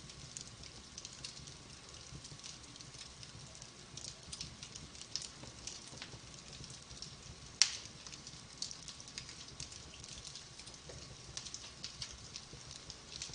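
Wood fire crackling in a fireplace: a steady stream of small irregular pops and snaps, with one much louder pop a little past halfway.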